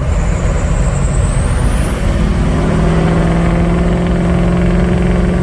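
Ford 6.0 Powerstroke V8 turbodiesel accelerating through a straight-piped exhaust. The turbo's whistle climbs in pitch over the first two seconds and then holds high, and a steady engine growl builds under it about two seconds in.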